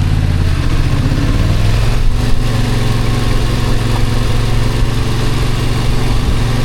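Motorcycle engine running under way, over a steady rush of wind noise. The engine note steps up about a second and a half in, then holds steady.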